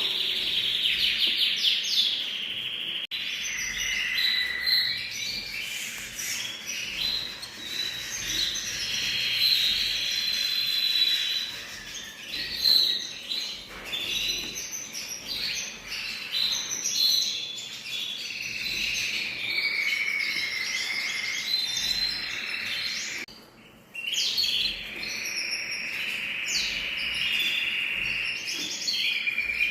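Songbirds singing together, a dense mix of quick chirps, trills and whistled notes, with a brief lull about three quarters of the way through.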